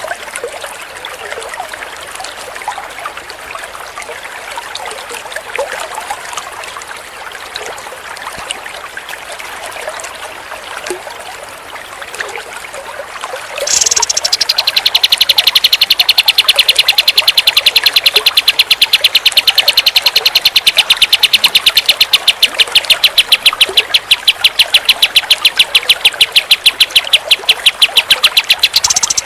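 Kapas tembak songbird singing: about halfway in it breaks into a long, loud run of one sharp high note repeated rapidly and evenly, over a steady trickle of running water.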